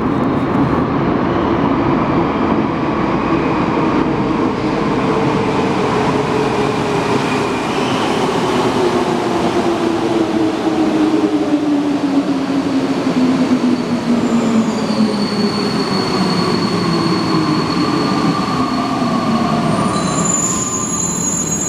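Alstom NS-93 metro train running with a steady loud rumble; its drive whine falls slowly in pitch as the train slows. Thin high squealing tones join about two-thirds of the way through.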